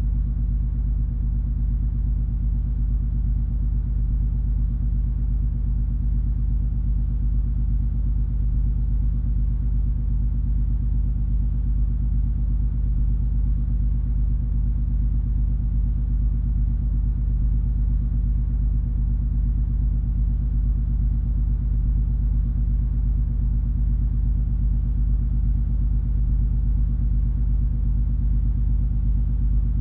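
Steady low rumble of the cruise ferry MS Color Magic under way, its engines and machinery running with an even, unchanging hum.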